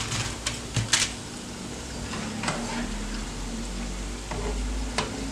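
Chicken nuggets deep-frying in hot oil, a steady sizzle, with a few sharp clinks and knocks of kitchen utensils, the loudest about a second in.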